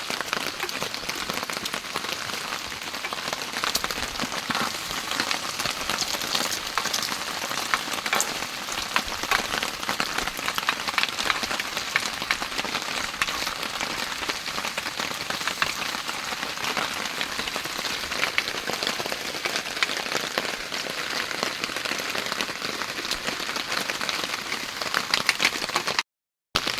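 Heavy rain falling steadily on a surface, a dense, even spread of drop ticks; the sound cuts out briefly near the end.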